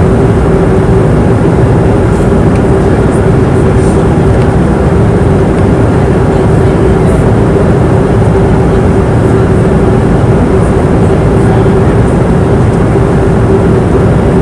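Airliner cabin noise in flight: a steady, loud rush of engine and airflow noise with a deep rumble underneath and a constant humming tone.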